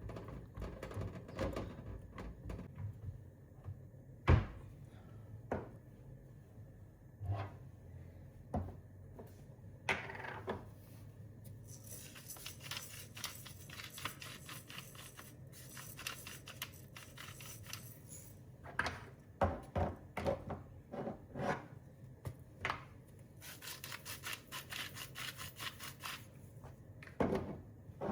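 Objects being handled on a hard surface: scattered knocks and clicks, the loudest about four seconds in, with two longer spells of rapid crackling rustle, one in the middle and one near the end.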